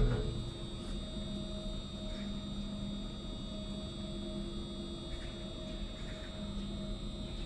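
Steady low machine hum with a few held tones, from the boat's running machinery while it waits in the lock, after a short knock right at the start.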